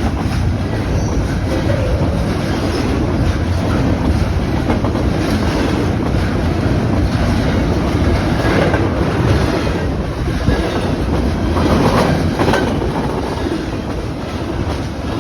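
Train rolling past, a steady loud rumble of railroad car wheels on the rails with rhythmic clickety-clack over the rail joints.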